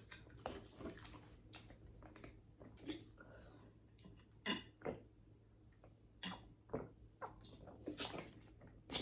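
Close-up eating sounds: chewing and mouth smacks, a scattering of short faint crackles and clicks with pauses between.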